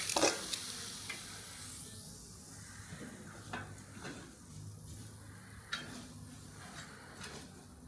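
A sizzling hiss fades away over about two seconds, followed by scattered light clicks and ticks.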